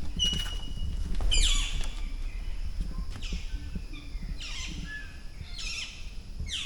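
A bird calling in a series of about five quick, high notes that each sweep sharply downward, over a constant low rumble.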